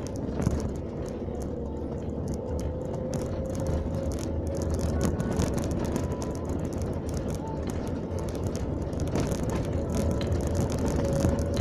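Car driving, heard from inside the cabin: a steady low engine and road rumble with a steady whining tone, and frequent light rattling clicks.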